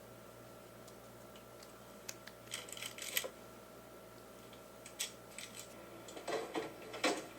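Scattered light clicks and taps, a few in quick clusters, over a faint steady hum.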